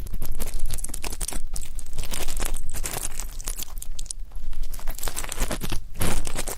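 Ear pick scraping and rubbing against a microphone's ear close up, giving dense, crackly scratching in uneven strokes.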